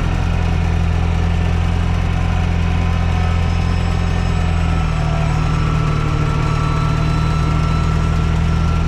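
TYM T224 subcompact tractor's diesel engine running steadily at idle, its note shifting slightly about halfway through.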